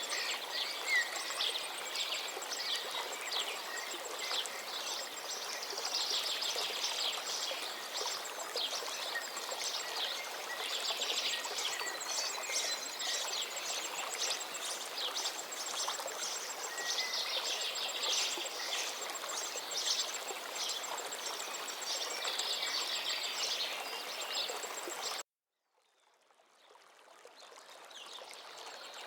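River water flowing steadily, with songbirds singing busily over it in many quick phrases. About 25 seconds in, the sound cuts out suddenly to silence and then fades back in over a few seconds.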